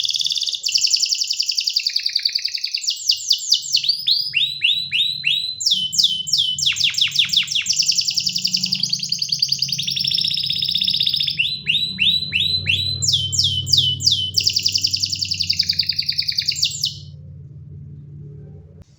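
Domestic canary singing a long run of rapid trills, each phrase a fast string of repeated notes at a new pitch. The song breaks off about two seconds before the end.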